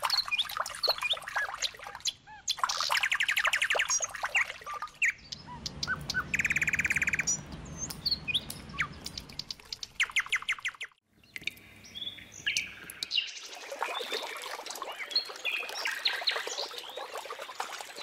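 Songbirds chirping, with several quick trills each lasting about a second; the birdsong breaks off abruptly a few times.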